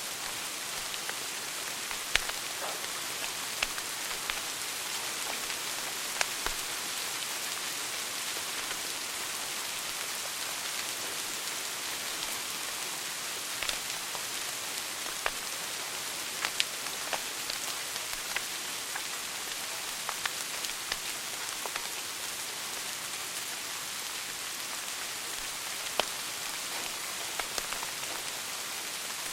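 Wood fire burning in a fireplace: a steady hiss with irregular sharp crackles and pops, a few much louder snaps among them.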